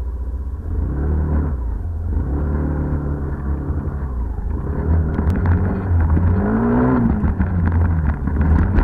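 Tigra 150 motorcycle engine running, its pitch rising and falling several times as it is revved, over a steady low rumble. Rattling clicks join in about halfway through.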